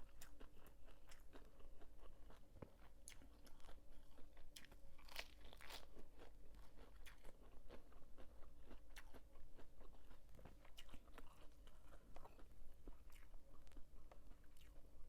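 A person chewing crunchy squid salad close to the microphone: a steady run of irregular crunches and small wet clicks.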